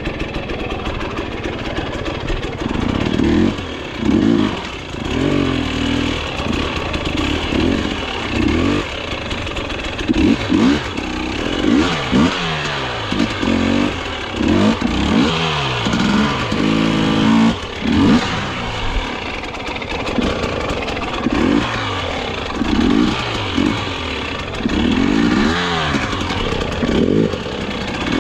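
Dirt bike engine revved in repeated short bursts, its pitch rising and falling with each blip of the throttle.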